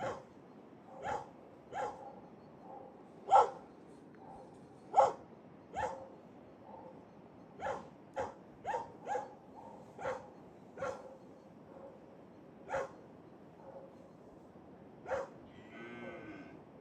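Dogs barking: about fifteen short, sharp single barks at uneven intervals, two of them much louder a few seconds in. Near the end comes one brief call of a different kind, drawn out with a bending pitch.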